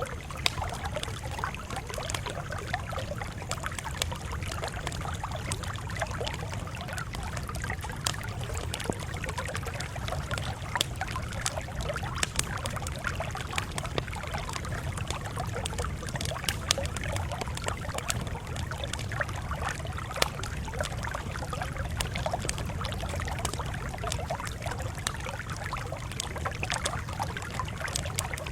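Wood campfire crackling, with frequent sharp pops and snaps scattered irregularly over a steady low rumble.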